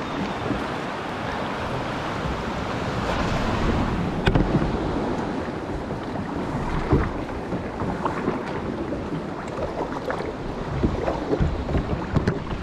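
Sea surge and waves sloshing and splashing around a kayak, with wind buffeting the microphone; sharp irregular splashes come every few seconds.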